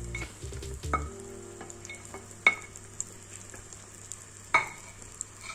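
Egg omelette sizzling on a hot iron tawa, with a few sharp ringing taps on the pan, the loudest about two and a half seconds in and near the end.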